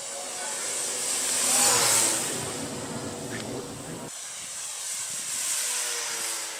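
Radio-controlled model aeroplane's engine running in flight, growing louder to a peak about two seconds in and then fading as it passes, with an abrupt change in the sound about four seconds in.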